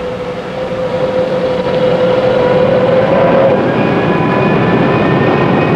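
Boeing 707 jet engine spooling up during engine start: a steady whine over a rumble that grows louder over the first couple of seconds, with higher tones joining in the second half and slowly rising in pitch.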